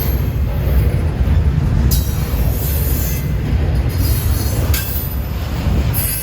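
Freight train passing close by: a loud, steady rumble of cars on the rails, with a high wheel squeal that comes and goes.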